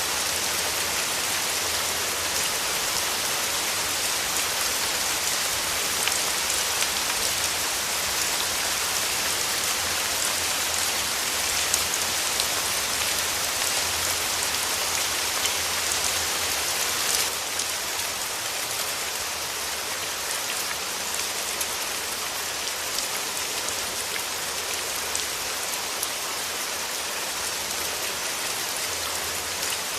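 Steady rain falling, a dense hiss of drops with scattered louder individual drops. It drops slightly in level a little over halfway through.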